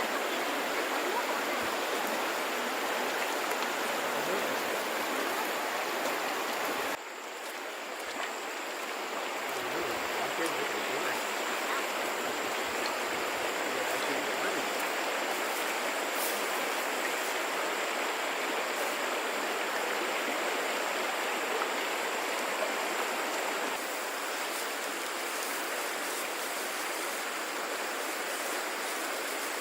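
Steady rush of running stream water. It drops abruptly about seven seconds in, then builds back up.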